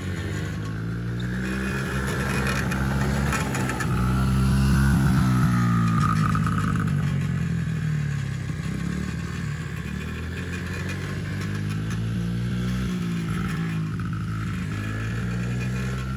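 A motor vehicle's engine running, its pitch rising and falling as it speeds up and slows down. It is loudest about five seconds in and picks up again near the end.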